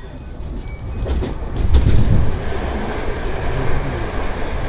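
JR West 221 series electric train (field-added excitation control) running, its wheel and motor rumble building over the first two seconds and then holding steady.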